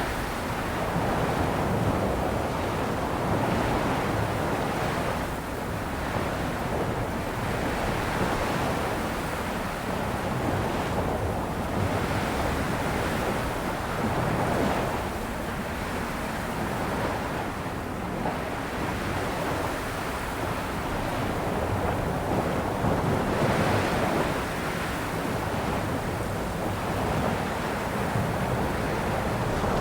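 Sea waves breaking and washing onto a shore, a continuous rush of surf that swells and eases every few seconds, with some wind noise on the microphone.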